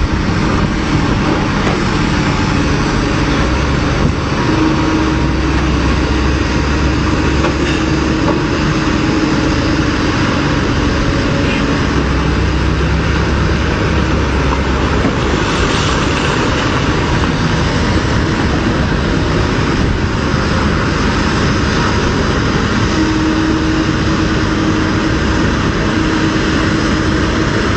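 Heavy machinery engine running steadily and loudly, with a humming drone that comes in and out.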